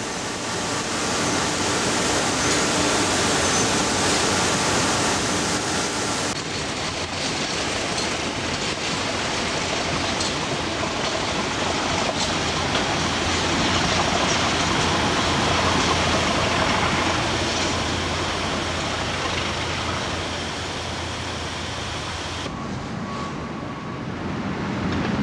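Freight train rolling along the rails with a steady rush of wheel and wagon noise. The sound changes abruptly twice, about six seconds in and near the end.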